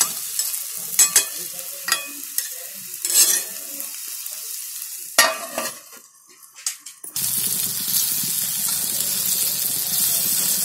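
Spiced okra frying in a kadai, a metal spatula scraping and tossing it over a sizzle. About five seconds in a lid goes on with a clank and the sound drops to a muffled hush, then a steady frying sizzle suddenly returns.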